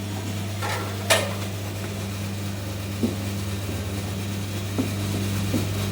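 Electric-motor coconut milk machine running with a steady low hum. A sharp knock comes about a second in, with a few lighter knocks later.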